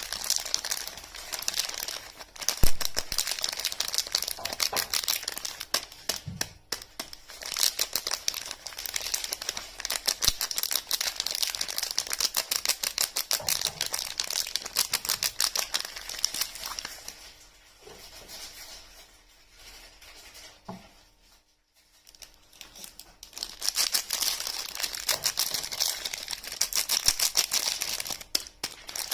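Wrapping on soap bars being crinkled and torn open in dense, rapid crackles. The crinkling drops to a quieter lull about two-thirds of the way through, then starts up again.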